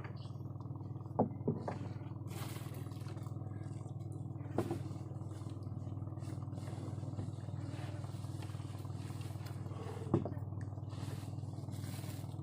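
A small engine running steadily, with a few short sharp knocks over it, the loudest near the end.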